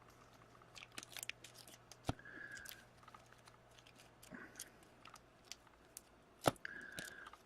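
Trading-card box and pack packaging being handled and opened: wrappers crinkling and tearing, with a few sharp knocks, the loudest about six and a half seconds in.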